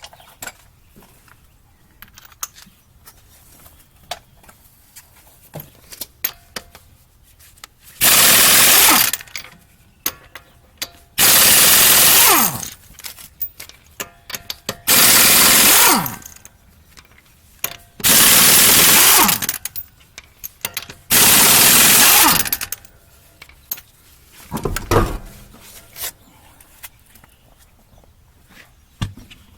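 Impact wrench hammering off a wheel's lug nuts, five bursts of about a second each a few seconds apart, each winding down in a falling pitch when the trigger is released. Small clicks and clinks come between the bursts.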